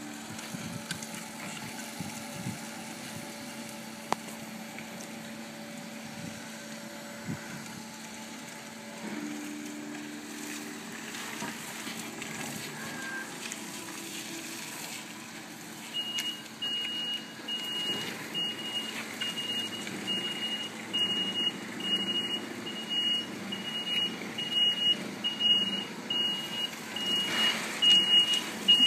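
Jungheinrich electric forklift truck running, a steady hum with a few held tones that shift about a third of the way in. From a little past halfway a high-pitched reversing alarm beeps about one and a half times a second, with uneven louder noise building toward the end as the truck moves.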